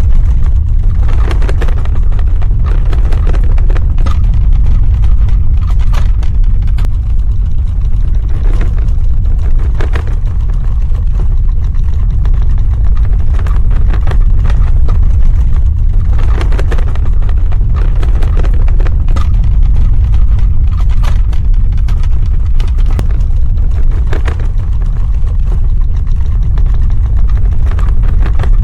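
Earthquake sound effect: a loud, continuous deep rumble with scattered crackling and rattling, swelling into brief grinding surges every few seconds.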